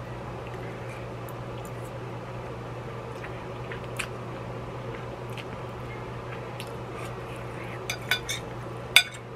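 Metal fork clinking and scraping in a ceramic bowl of noodles, with eating sounds, over a steady low hum; a few sharper clinks come near the end.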